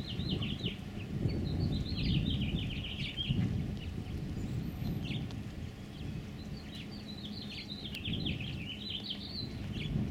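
A small songbird singing two quick phrases of rapid chirps, one at the start and one about two-thirds of the way through, over a steady low rumble.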